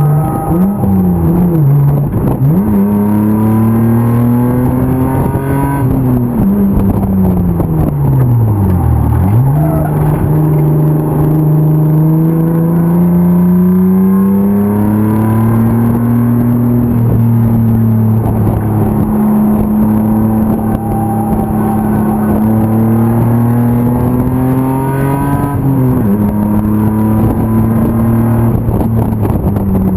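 BMW E36 325 race car's M50 inline-six engine at racing speed. The revs climb under throttle and fall away on lifts and shifts, with a long deceleration down to low revs about nine seconds in, then a climb to a steady high-rev stretch, and a sharp drop near the end.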